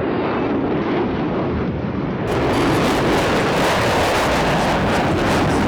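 F-35A Lightning II's single jet engine, a loud steady jet rumble as the fighter flies its display. The sound turns brighter and slightly louder about two seconds in.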